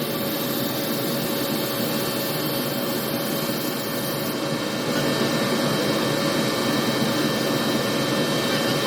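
Steady rushing machine and air noise, unchanging, with a faint steady hum in it.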